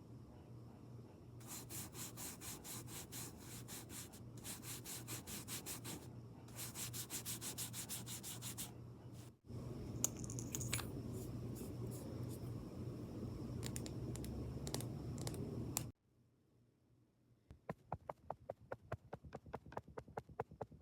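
Close-up ASMR friction sounds: quick rhythmic brushing strokes, about four or five a second, then a steady rubbing. Near the end, after a short pause, comes a run of quick light tapping.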